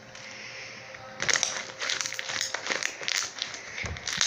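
Freshly made clear slime being pressed and squeezed by hand, trapping and popping air pockets: a dense run of small wet pops and crackles that starts about a second in.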